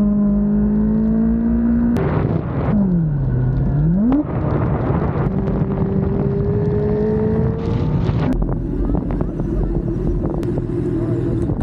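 Motorcycle engine running hard, over a steady rushing noise. It holds a steady high note, drops in pitch and climbs back about three to four seconds in, then rises slowly as it accelerates.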